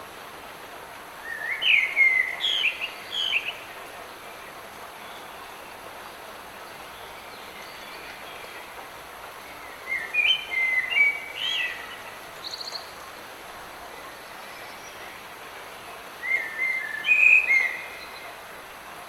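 A songbird singing three short song phrases several seconds apart, over the steady hiss of light rain.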